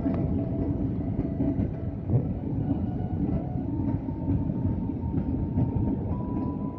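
Airbus A319 cabin noise heard from inside the aircraft: a steady low rumble of engines and airflow, with a faint thin whine coming in about four seconds in.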